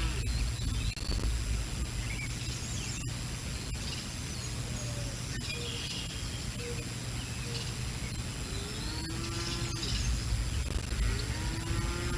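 Strong wind buffeting the nest camera's microphone, heard as a steady low rumble, with small birds chirping. Two drawn-out, arching calls come near the end, about three seconds apart.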